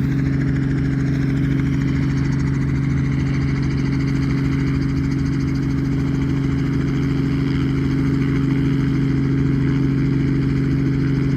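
Helicopter running on the ground, its engine and rotors giving a steady low hum with two strong held tones.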